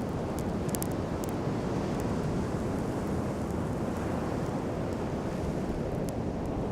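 Wood campfire crackling, with scattered sharp pops and a cluster of them about a second in, over a steady rush of surf and wind.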